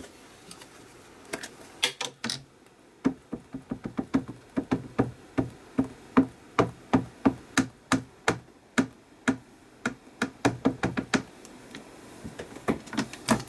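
An ink pad dabbed repeatedly onto a rubber stamp to ink it: a quick run of light knocks at about three a second, with a few scattered taps before and after.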